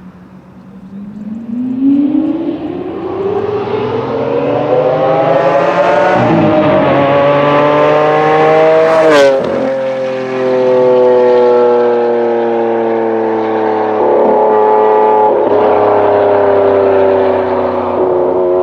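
Lamborghini Aventador V12 engine accelerating hard, its note rising for several seconds with a brief break for a gear change about six seconds in. A sharp crack comes about nine seconds in, and the engine note then drops slightly and falls slowly, with small breaks near the end.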